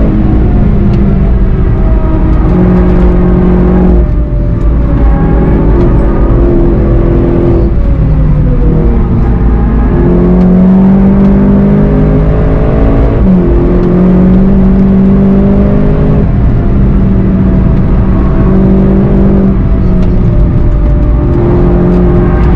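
VW Golf 7.5 GTI TCR's turbocharged 2.0-litre four-cylinder engine at full effort, heard from inside the cabin, its revs climbing and then dropping at several gear changes as the car brakes and accelerates through the corners.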